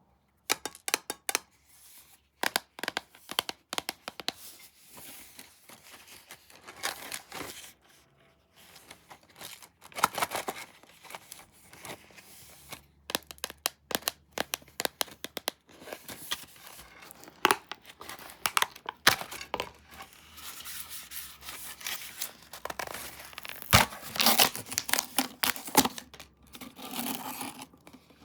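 Pringles Paprika snack packaging being unwrapped and handled up close, tearing and crinkling in many short, irregular, sharp crackles that grow busier and louder in the last third.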